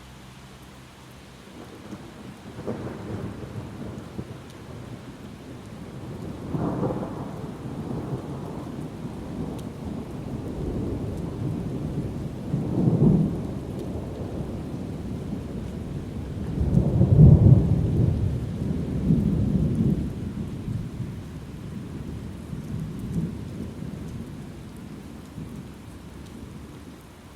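Thunder rolling in a long series of low rumbling swells over steady rain, loudest past the middle and dying away near the end.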